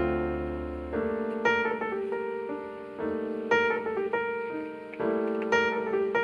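Piano music: chords and single notes struck in turn, each fading away before the next.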